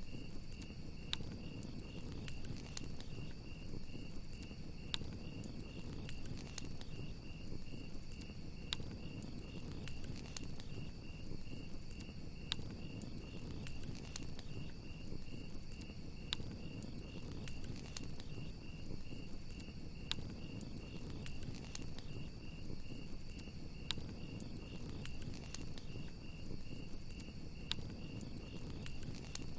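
Campfire crackling: irregular sharp pops over a low, steady rush. With it, crickets chirp in a continuous fast, pulsing trill.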